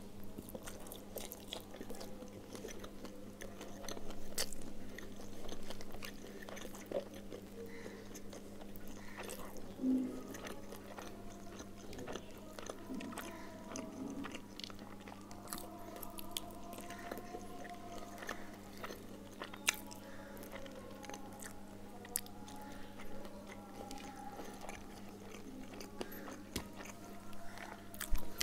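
Close-up chewing and biting of rice and fish eaten by hand, with many small crunches and wet mouth clicks over a low steady hum.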